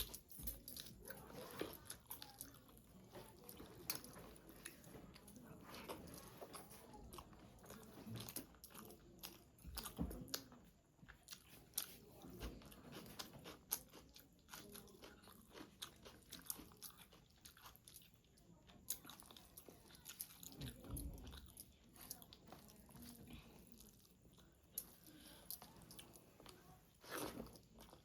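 Quiet close-up eating sounds of a person chewing and biting a meal of rice, egg poach and spicy chicken curry: many short wet mouth clicks and smacks, with a few louder bites.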